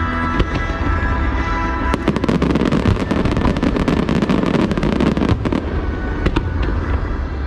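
Aerial fireworks crackling: a dense run of rapid pops from about two seconds in until past five seconds, then a few single pops, over loud music played with the show.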